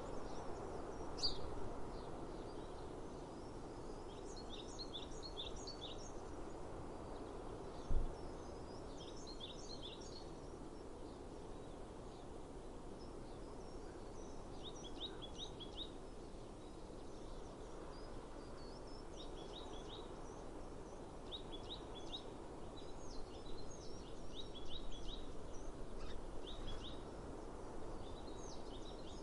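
Small birds chirping in short, quick runs of high notes, repeated throughout, over a steady outdoor background hiss. A single low thump about eight seconds in.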